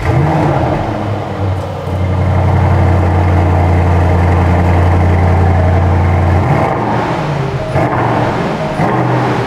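Aston Martin DBX's twin-turbo V8 starting up: a sudden loud start-up flare rising in pitch, then the engine running steadily at idle. The note changes about six and a half seconds in.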